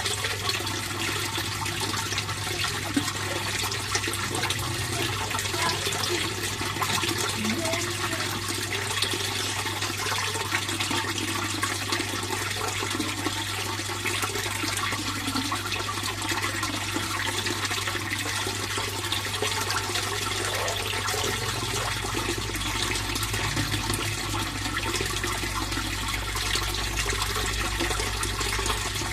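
Steady running water of a fish pond's flow, an even splashing with no let-up, over a low steady hum.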